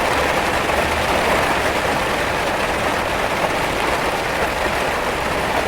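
Steady rain falling and tapping, an even dense hiss of drops at a constant level.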